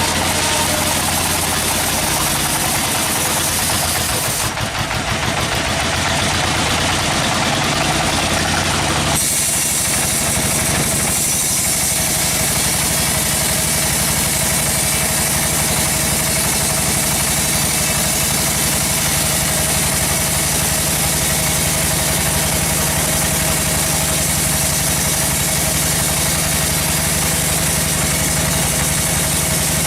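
Sawmill machinery running: a steady, loud engine drone, its tone changing abruptly twice in the first ten seconds and then holding steady.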